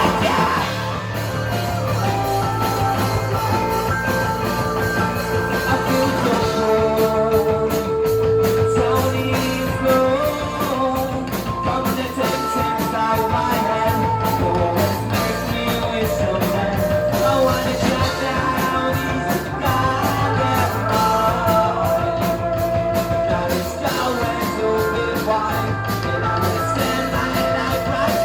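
Live rock band playing a song, with a voice singing over guitar, bass and drums.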